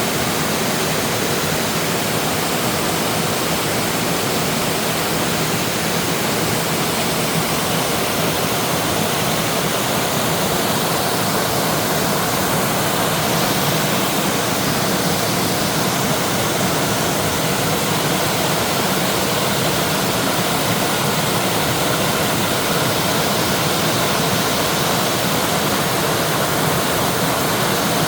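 Mountain valley stream rushing steadily over rocks, a full, even sound of flowing water.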